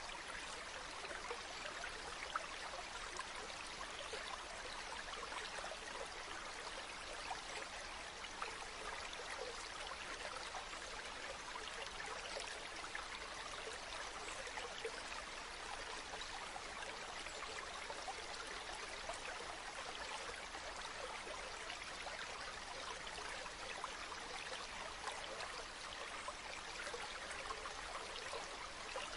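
Running water from a natural spring, flowing and trickling at a steady, unchanging level.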